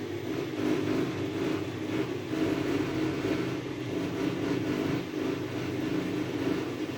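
DEXP washing machine running with a steady mechanical hum.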